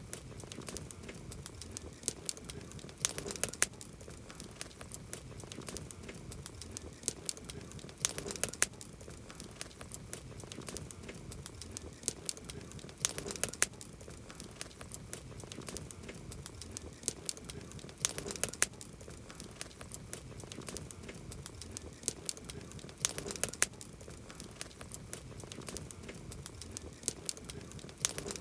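Wood campfire crackling: sharp pops and snaps over a soft hiss, with a cluster of louder pops about every five seconds.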